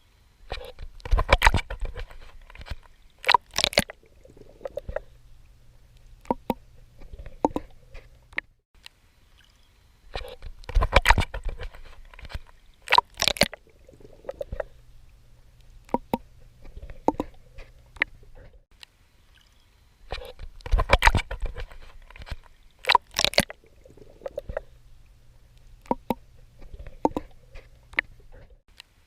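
A swimmer's strokes splashing and sloshing in water, in groups of sharp splashes that come back about every ten seconds, with softer sloshing between.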